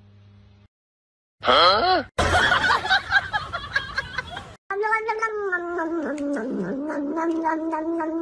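A cat yowling in one long, drawn-out, wavering call that starts about halfway through. Before it come brief sounds with gliding pitch, cut off abruptly.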